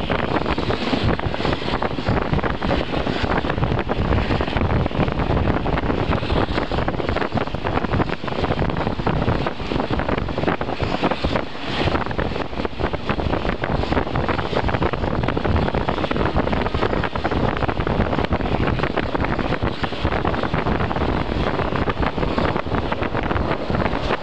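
Wind buffeting the microphone at the open window of a moving passenger train, over the steady running noise of the train on the rails.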